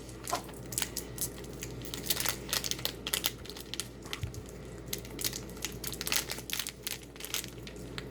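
Irregular crinkling and rustling of a plastic packet being handled, with scattered small clicks.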